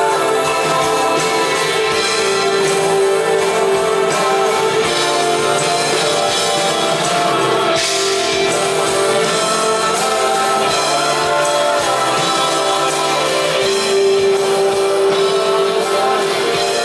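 Live rock band playing loudly, with electric guitars and drums, and a vocal line in places.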